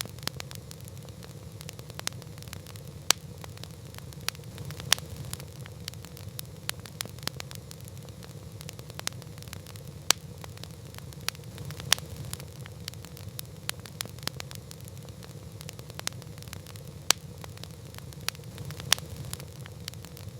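Wood campfire crackling: irregular sharp pops and snaps, about six of them louder, over a steady low rumble.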